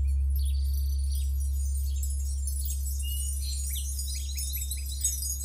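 Wind chimes tinkling over short chirping bird calls, above a deep steady hum that slowly fades.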